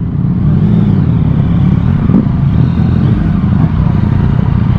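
Yamaha MT-09 SP's inline three-cylinder engine with an Akrapovic exhaust running steadily.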